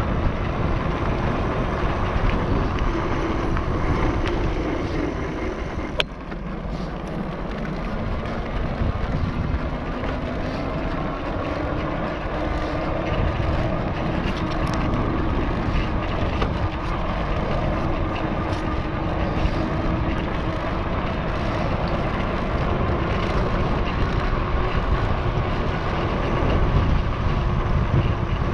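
Wind on the microphone of an NCM Aspen electric mountain bike ridden under throttle, with a steady whine from its electric motor that shifts slowly in pitch. There is one sharp click about six seconds in.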